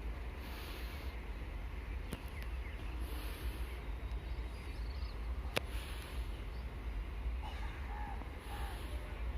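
Outdoor ambience with a steady low rumble and birds chirping faintly, most noticeably in the last couple of seconds. A single sharp click about halfway through.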